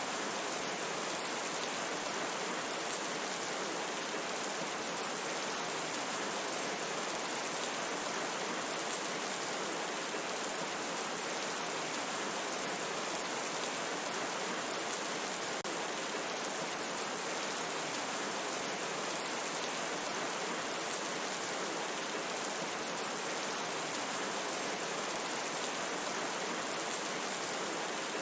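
Steady heavy rain falling in a forest, an even unbroken hiss with no distinct drops or breaks.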